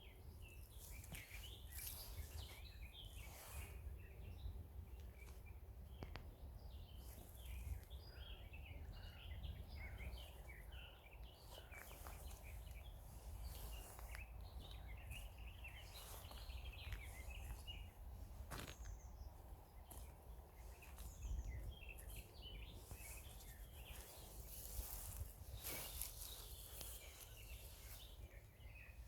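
Faint chorus of small songbirds chirping and twittering, many short quick notes overlapping throughout, over a steady low rumble.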